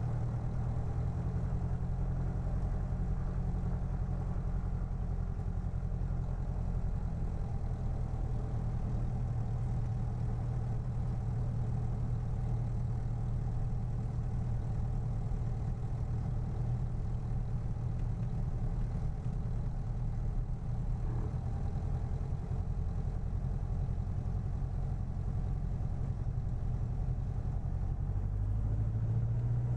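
Cessna 177RG Cardinal's four-cylinder Lycoming IO-360 engine and propeller running steadily at low power, heard from the cockpit. Near the end the pitch and level rise as the throttle is opened for the takeoff.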